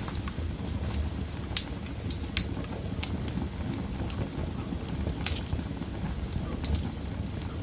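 Wood fire burning in a fireplace: a steady low rumble of flames with sharp crackles and pops every second or so, about five in all, the loudest about one and a half seconds in.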